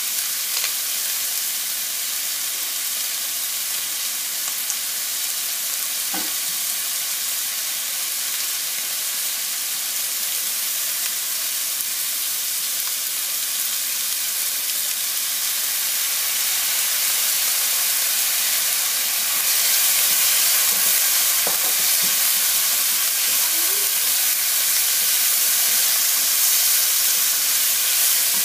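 Diced chicken and julienned ginger sizzling in a nonstick frying pan, the steady sizzle growing louder about two-thirds of the way through. Right at the end a spatula starts stirring the pan.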